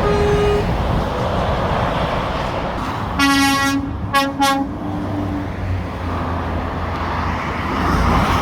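A lorry's horn sounding over steady motorway traffic noise: a brief toot right at the start, then about three seconds in one longer blast followed by two short toots.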